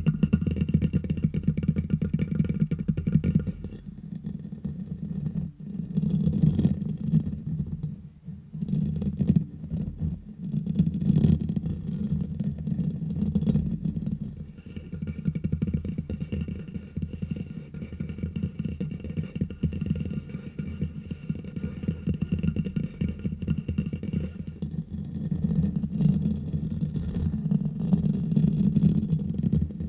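Fingers tapping and scratching fast, right on a microphone: a dense, continuous run of low, close-up taps and rubs.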